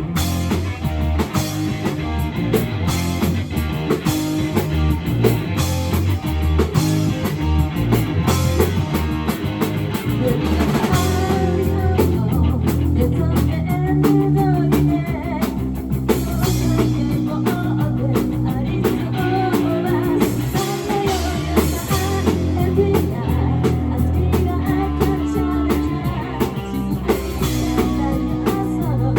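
Rock band playing live: drum kit, electric guitar and bass, with a voice singing over them.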